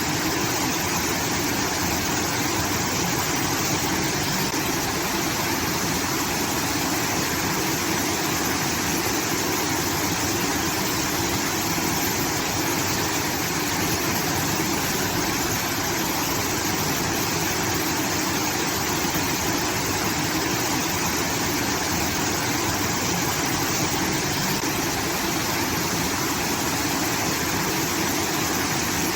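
Water pouring from a rice-field irrigation outlet, a steady rushing that sounds like a small waterfall.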